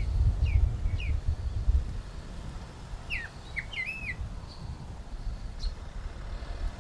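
Wild birds chirping: short, quickly falling notes, a few near the start and a busier cluster about three to four seconds in, over a low rumble that eases after the first couple of seconds.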